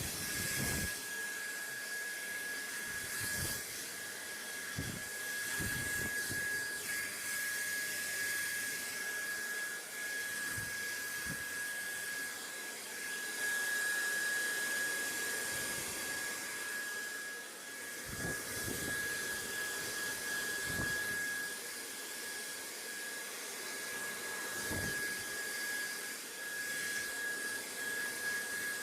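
BaByliss hair dryer running steadily: a constant rush of air with a thin steady motor whine, and a few faint low bumps.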